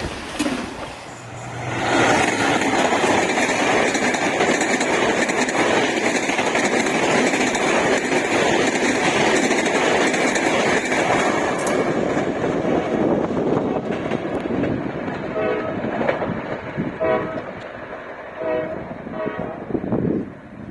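A passenger train passing close at speed: loud rolling noise with a long, steady horn blast from about two seconds in to about twelve seconds. After that the sound eases off into wheel clatter as the train moves away.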